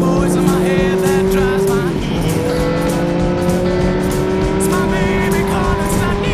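Motorcycle engine accelerating under load, its pitch climbing steadily, then dropping sharply about two seconds in at a gear change before climbing again. Background music plays over it.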